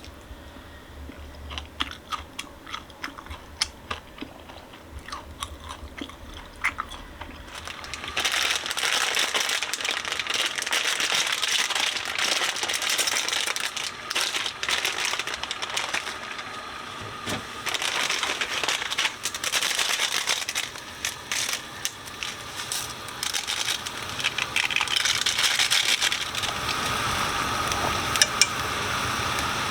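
Small clicks and chewing, then from about eight seconds in, loud crinkling and rustling of plastic food packaging being handled.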